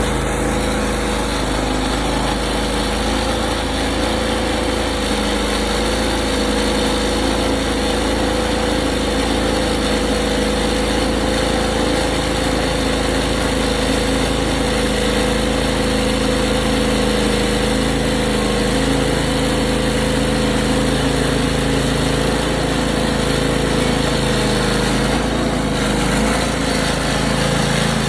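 Portable sawmill's gasoline engine running steadily at constant speed.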